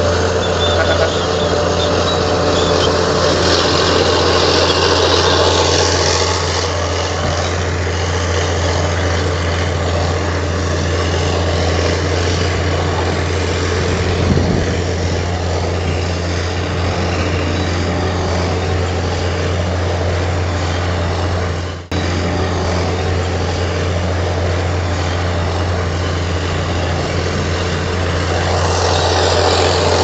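Heavy diesel engine of a Komatsu crawler bulldozer running steadily with a deep low drone. The sound briefly cuts out about two-thirds of the way through, then carries on.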